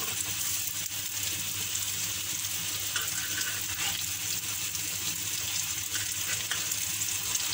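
Potato and chicken kababs shallow-frying in oil on a tawa: a steady sizzle, with a few light taps and scrapes of a metal spatula as they are turned.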